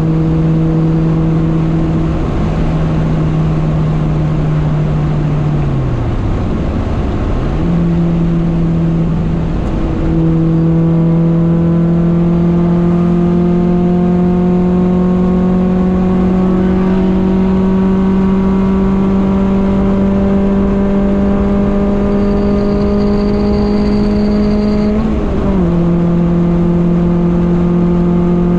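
Honda Civic Nouva's four-cylinder engine heard from inside the cabin at highway speed, with steady tyre and wind noise. It cruises evenly in fifth, sags as the throttle eases about five seconds in, then from about ten seconds pulls in fourth with its pitch rising slowly and steadily. A shift up to fifth near the end drops the note a step, and it settles to a steady cruise.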